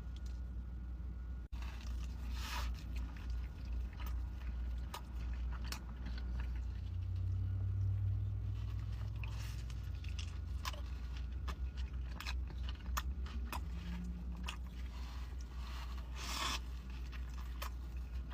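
Close-miked eating of pizza: bites with short crisp crunches, chewing and wet mouth clicks, irregular throughout. A steady low hum lies underneath, with a brief dropout about a second and a half in.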